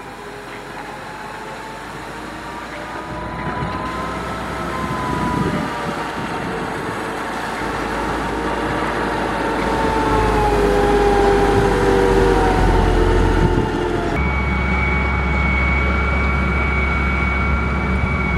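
Motor grader's diesel engine working under load, its pitch drifting as the load changes and growing louder as it comes closer. About fourteen seconds in the sound changes abruptly, and a steady high whine rides over the engine.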